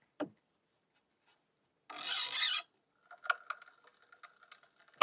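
A brief rasping scrape about two seconds in, with a small click just before it and a few faint ticks after.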